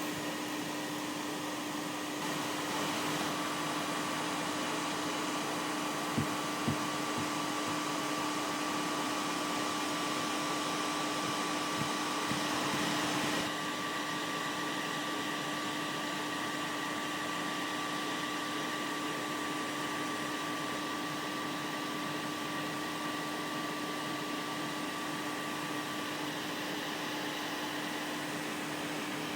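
Steady whir of a small motor-driven fan with a constant low hum. The sound shifts abruptly twice, about two seconds in and near the middle. Two soft clicks come about six seconds in.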